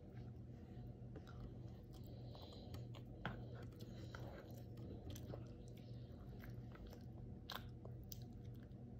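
Faint chewing and mouth sounds of a toddler eating rice, with scattered small clicks, the sharpest about three seconds in, over a faint steady low hum.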